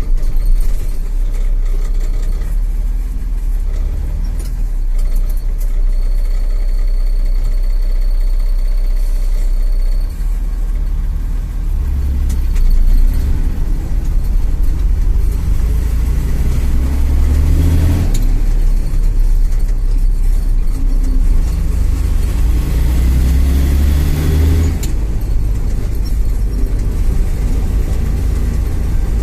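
IFA L60 truck's diesel engine running under way. Twice the revs climb and then fall off suddenly, as gears are changed on its 8-speed double-H gearbox.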